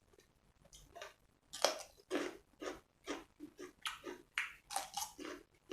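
A person chewing a mouthful of grilled pork-neck salad, a steady run of short chews about two a second.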